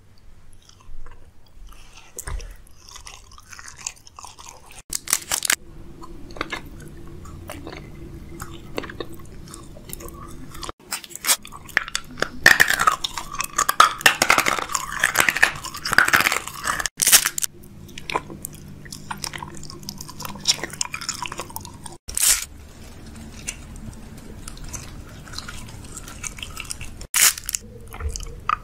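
Close-miked biting, crunching and chewing of sweets, with the densest crackly crunching about halfway through. Abrupt cuts every few seconds where one short eating clip gives way to the next.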